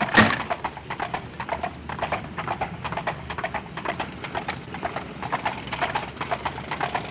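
A horse's hooves clip-clopping in a fast, steady rhythm as it pulls a hansom cab, with one loud sharp hit right at the start.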